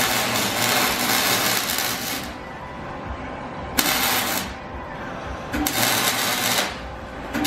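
Welder crackling and hissing in four bursts, the first about two seconds long and the others about a second each, stopping and starting again. It is welding an exhaust pipe on dirty, rusty steel.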